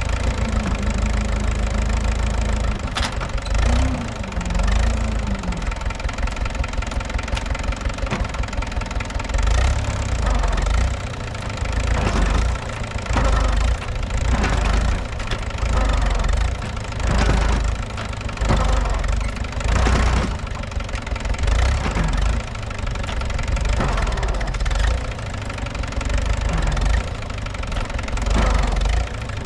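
Mahindra B275 tractor's diesel engine running under load, with its deep sound surging up and dropping back again and again every second or two as the stuck tractor is worked to get free.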